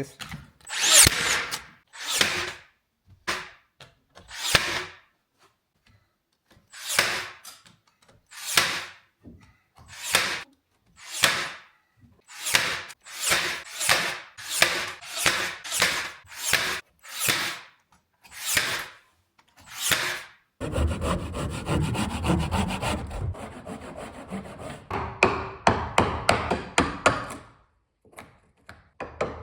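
Saw cutting wood in even back-and-forth strokes, about one a second. About two-thirds of the way in it gives way to a denser, continuous stretch of cutting noise for several seconds.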